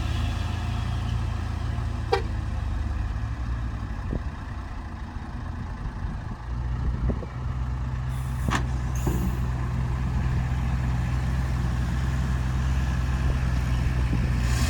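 Dump truck's diesel engine running steadily, easing off about 4 seconds in and picking up again around 7 seconds. Two sharp clicks, near 2 and 8.5 seconds.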